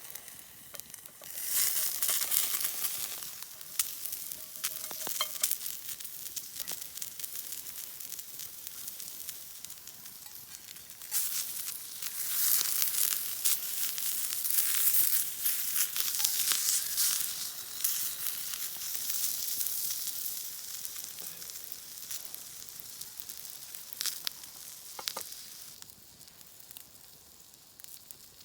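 Food sizzling as it cooks on the heat, a high hiss that swells loudly twice, briefly near the start and for several seconds mid-way, with scattered small pops, then dies down near the end.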